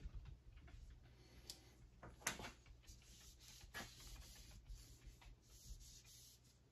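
Faint scattered clicks and light taps from hand work at a bench, with one sharper click a little over two seconds in, over a steady low hum.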